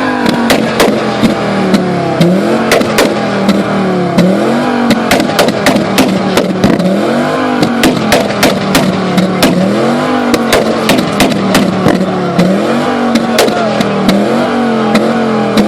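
Audi 90 2.3 10V's five-cylinder engine idling and blipped up and back about every two seconds, with the exhaust backfiring in many sharp pops and cracks throughout.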